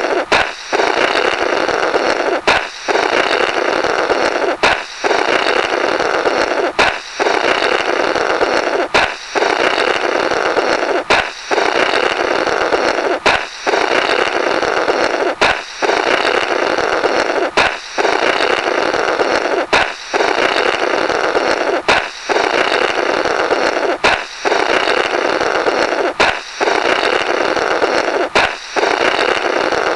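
Comical cartoon 'blorrrt' sound effect: a balloon popping, followed by a long noisy rasp of air blown through the burst rubber. It repeats as a loop about every two seconds, each cycle opening with a short sharp pop.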